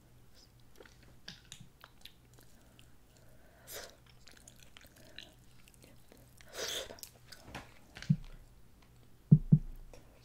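Close-miked chewing of snow crab meat, with small crackling clicks as the crab shell is picked apart. A couple of dull thumps near the end are the loudest sounds.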